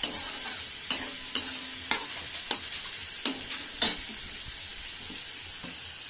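Eggplant pieces sizzling in hot oil in a wok while a steel spatula scrapes and taps against the pan, about ten sharp strokes in the first four seconds, then only the steady sizzle.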